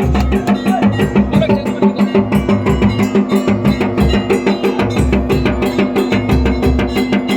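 Music of fast, even drumming over a steady held droning tone.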